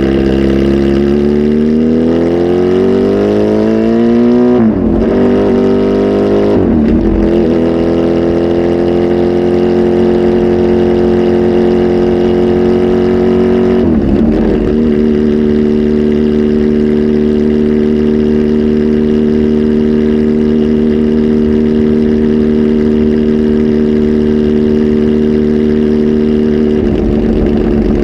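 Kawasaki Z H2 SE's supercharged inline-four, flash tuned and breathing through a full aftermarket exhaust: the revs climb twice with a sharp drop after each climb, then the engine holds steady revs, steps down slightly and holds again before falling off near the end.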